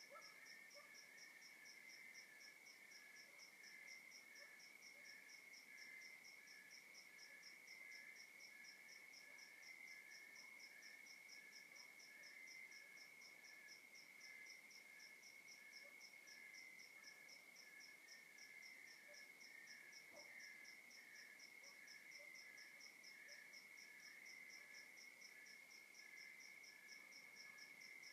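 Faint chorus of crickets at night: one steady high trill, with regular pulsed chirps from others at two different pitches, one slower and one faster, keeping an even rhythm throughout.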